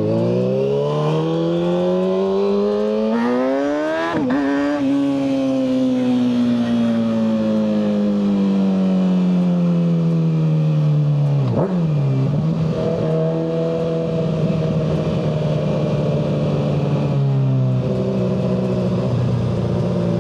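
Kawasaki ZX-6R 636's inline-four engine through a Yoshimura slip-on and full header exhaust, riding. The revs climb for about four seconds, break at a gear change, then fall slowly. There is another break at about twelve seconds, after which the engine holds fairly steady revs.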